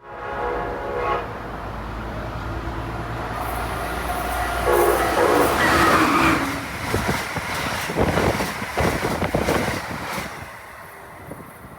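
Passenger train passing at speed. It sounds its horn briefly at the start and again, louder, about five seconds in, then its wheels click over the rail joints as it goes by.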